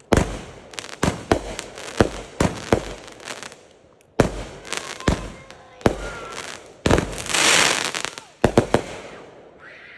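Consumer fireworks going off: a run of sharp, irregular bangs and pops. About seven seconds in comes a loud hissing rush lasting about a second, then a quick cluster of pops near the end.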